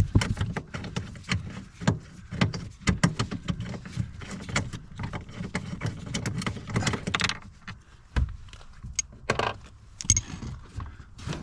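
Irregular clicking, knocking and rattling of hand tools and plastic interior trim while a 10mm fastener on the car's transmission-tunnel trim is worked on. There are short scraping sounds partway through.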